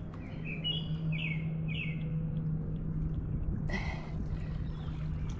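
A bird calling: a quick series of about five short chirps in the first two seconds, over a steady low background noise, with a brief hiss about four seconds in.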